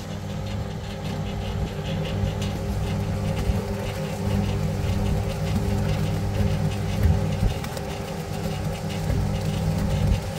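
A vehicle engine running steadily at an even speed, with a continuous hum.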